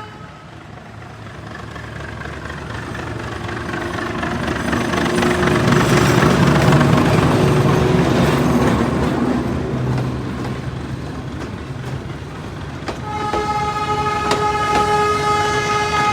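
A train passing, its rumble building to a peak and then fading. About thirteen seconds in, a train horn starts sounding, one long steady blast.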